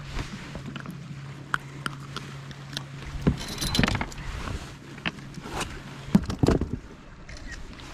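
Handling noise aboard a fishing kayak: scattered clicks and knocks over a steady low hum that stops about six seconds in.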